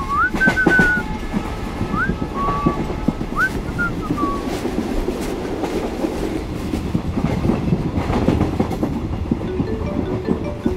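Passenger train coach running, a steady rumble with wheels clacking over rail joints. A man whistles a short tune over it for the first four seconds or so.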